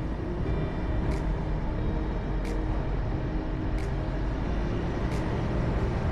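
Steady engine and road rumble of a moving vehicle, heard from inside, with a sharp short click repeating about every second and a third.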